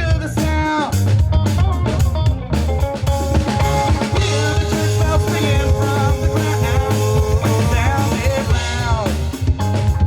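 Live funk-rock band playing: drum kit and electric bass keep a steady groove under electric guitar, with a few long sliding notes.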